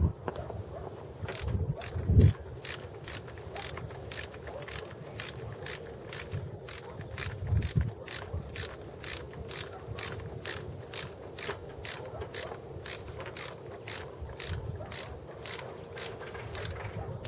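Ratchet wrench clicking in a steady, even rhythm of about three clicks a second, with a couple of low thumps from handling.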